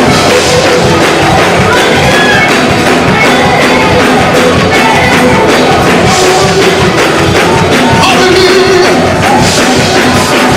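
Loud church music with drums and percussion, playing a fast, steady beat.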